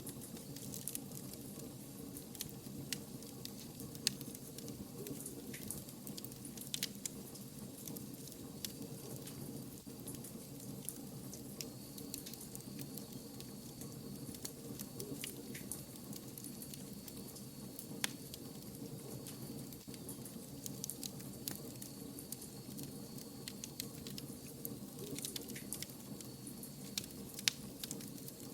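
Wood fire crackling, with sharp pops and snaps scattered irregularly over a steady low rumble of burning logs. A faint high whistle runs through the middle stretch.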